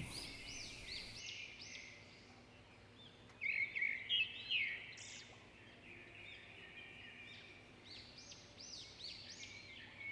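Faint birds chirping and twittering in several bursts, with quieter stretches between.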